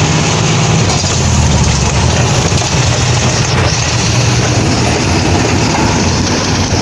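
Truck engine running steadily, a low hum under a constant rushing noise.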